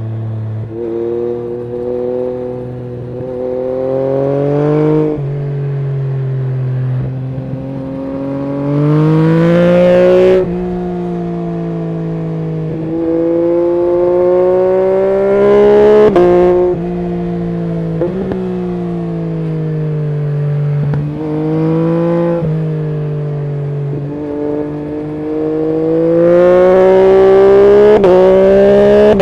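Yamaha MT-09 SP's inline three-cylinder engine breathing through an Akrapovic full exhaust system, accelerating hard through the gears: its pitch climbs steadily, then drops sharply at each upshift, several times over. The pulls are loudest about ten seconds in, around sixteen seconds, and near the end.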